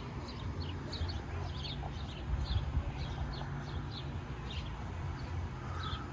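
Small birds chirping: short, high, quick calls repeated irregularly a few times a second, over a steady low rumble.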